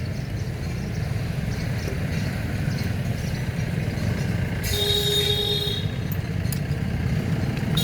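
Steady low rumble of an idling engine, with a short ringing tone a little under five seconds in that lasts about a second.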